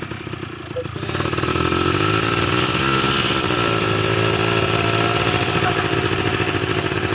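ATV engine running under throttle. It gets louder about a second in, and its pitch dips and climbs back around three seconds in, with a steady whine above it.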